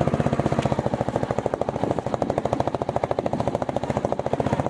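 Royal Enfield Bullet 350's single-cylinder engine running at low revs, a rapid, even train of exhaust beats.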